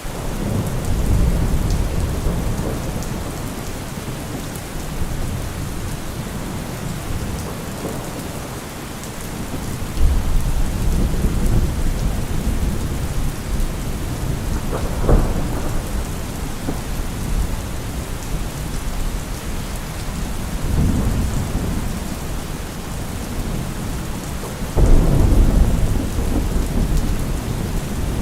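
Heavy rain falling in a steady dense hiss, with deep low rumbles that swell and fade. The rumbles come in twice abruptly, about ten seconds in and again near the end, with a sharper low thud about halfway through.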